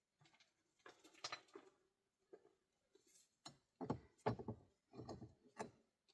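Faint, irregular knocks and scrapes of things being handled, with a run of heavier thuds from about three and a half to five and a half seconds in.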